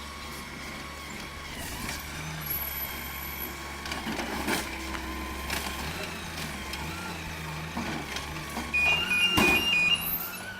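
A large vehicle's engine idling steadily, with a few short high beeps near the end and scattered clicks.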